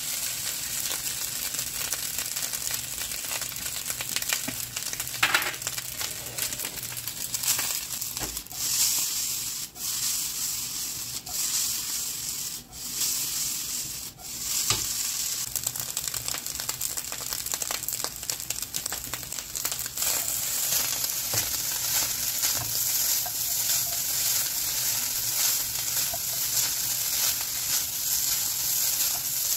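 Fried rice sizzling in a nonstick wok on a gas stove while a spatula stirs and turns it, with frequent short scrapes and taps of the spatula against the pan over a steady hiss.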